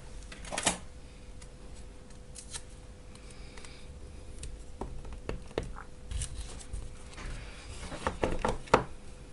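Workbench handling sounds: scattered light clicks, taps and short rustles of small parts and tools being handled, with a quick run of sharper clicks near the end. A faint steady tone sits underneath.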